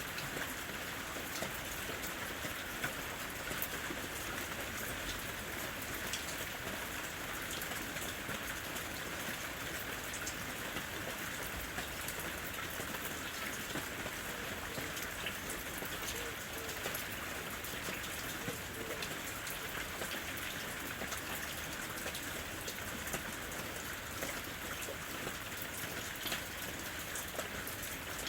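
Steady rain falling in a forest, an even hiss with many scattered individual drops ticking on leaves and surfaces.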